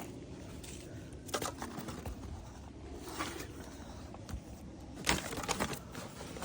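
Litter being picked up and handled, with short rustles and scrapes about a second and a half, three and five seconds in, over a low steady background rumble.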